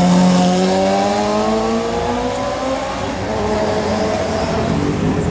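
Sport motorcycle engine accelerating, its note climbing steadily in pitch over a few seconds and then dropping away, with street traffic noise underneath.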